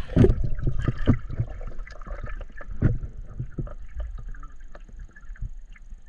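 Water sloshing and splashing around the camera, with irregular knocks over a low rumble, loudest in the first half.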